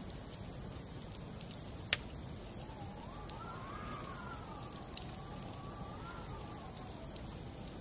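Wood fire burning in a fireplace, crackling with scattered sharp pops over a steady low rush; one pop about two seconds in is the loudest. Through the middle, a faint whistle rises and falls in pitch.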